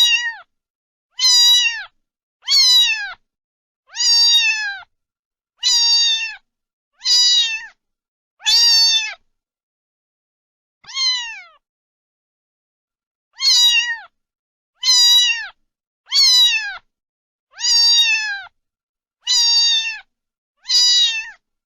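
A cat meowing over and over: high meows about every one and a half seconds, each falling in pitch at its end, with a pause of a few seconds around the middle.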